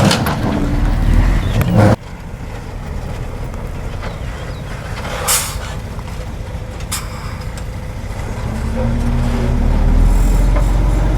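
Diesel engines of heavy earthmoving machinery running. The sound cuts abruptly about two seconds in to a quieter rumble with two short, sharp sounds, then an engine grows steadily louder near the end.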